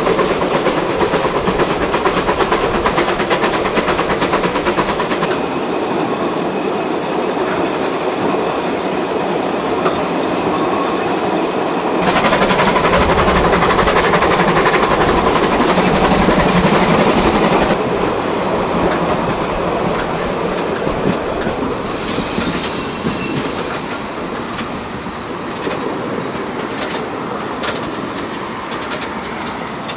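750 mm narrow-gauge train running on the track. The sound changes abruptly several times, is loudest in the middle, and fades toward the end.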